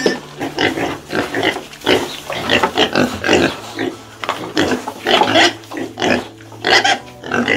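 A group of piglets grunting and squealing in short, overlapping calls, several a second.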